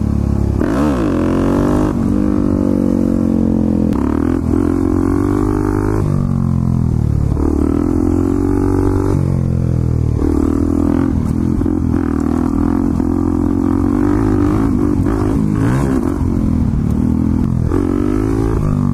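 Motorcycle engine running under throttle, its revs rising and falling again and again as the rider opens and closes the throttle.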